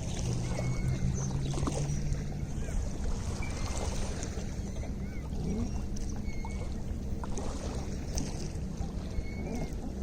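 Lake water lapping with a steady low rumble of wind and water. Short high chirps come every second or two, and a low hum runs through the first couple of seconds.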